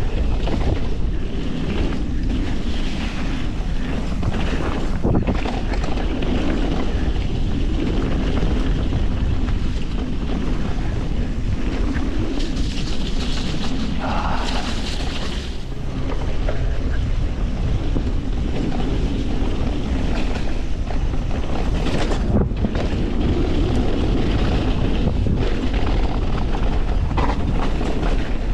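Wind rushing over an action camera's microphone as a YT Industries Capra mountain bike rolls down a muddy dirt trail, with a steady low rumble from the tyres and a few sharp knocks as the bike hits bumps.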